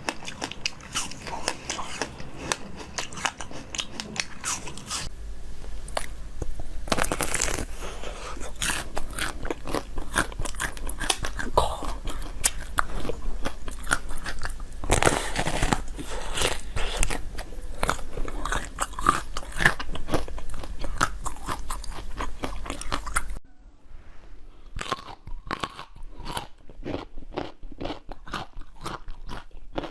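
Close-miked eating: someone biting into and chewing crunchy frozen food, with dense crackling crunches. About two-thirds of the way through the sound changes abruptly to sharper, separate crunches.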